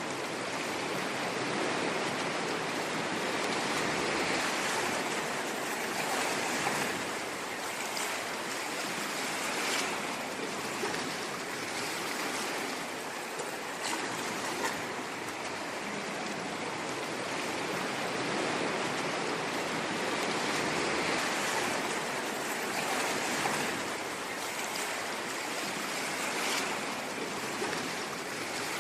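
Ocean waves washing onto a shore: a continuous rushing of surf that swells and eases slowly, with a few brief splashes as waves break.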